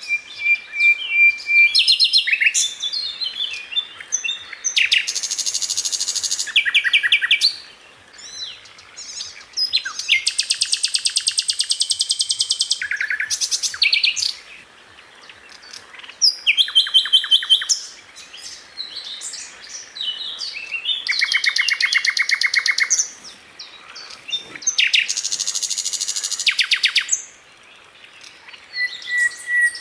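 Sikatan londo flycatcher singing: rapid, rattling trills about one to two seconds long, repeated again and again with short pauses and quick high chirps between them.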